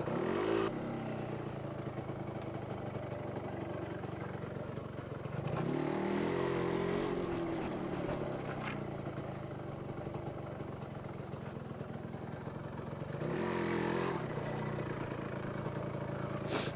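Yamaha RZX two-stroke motorcycle engine running at low revs, rising in pitch and getting louder twice as the throttle is opened, about a third of the way in and again near the end, then easing back.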